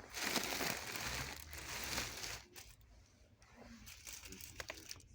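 Crinkling and rustling handling noise for about two and a half seconds, then a few light clicks and knocks.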